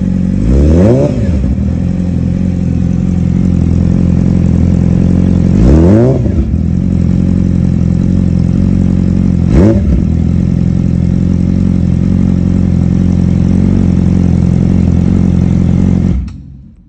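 2017 Yamaha YZF-R6's inline-four through an M4 slip-on exhaust, idling with three quick throttle blips, the last one shortest. The sound cuts off near the end.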